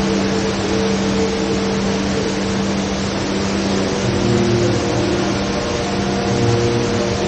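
Steady rush of water pouring down the HSBC Rain Vortex, a tall indoor waterfall, with low steady hums underneath that change pitch about four seconds in.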